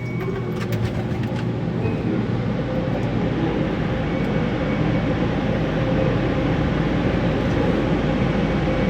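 Automatic soft-touch car wash equipment working over the car, heard from inside the cabin: a steady rushing noise that slowly grows louder, with a faint steady hum.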